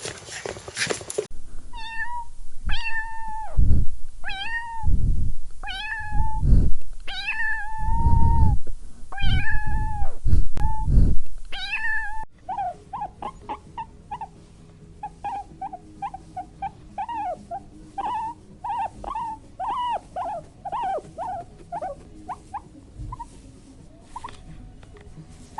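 Cat meowing: about eight drawn-out meows, some with heavy low thumps under them. After an abrupt cut, a run of many short, quick mews follows. A brief noisy stretch comes in the first second, before the meows.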